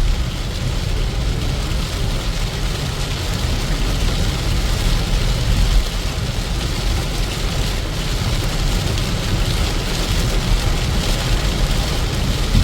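Steady rain mixed with the low, continuous rumble of a vehicle driving in the rain.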